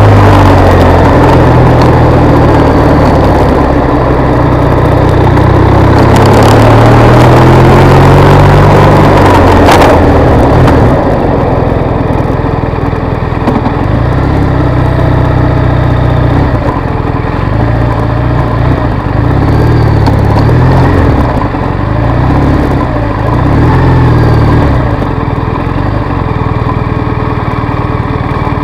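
BMW R1200 RS boxer twin pulling up a climb under heavy wind noise, its pitch rising. About ten seconds in the wind drops away as the bike slows. The engine then runs at low speed in first gear, rising and falling several times, and settles to a steady low run near the end.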